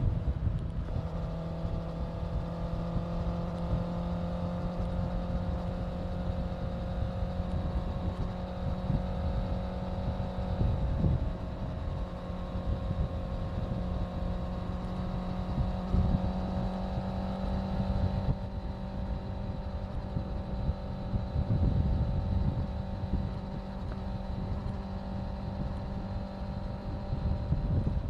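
Honda CBR650F's inline-four engine running at a steady cruise, its pitch drifting only slightly, with wind rumbling on the microphone.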